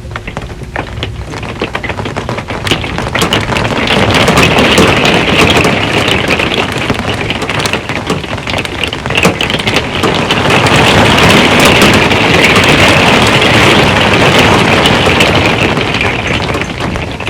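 Heavy rain drumming on a metal RV roof: a dense hiss of countless drop impacts that swells into a harder downpour about three seconds in and eases a little near the end.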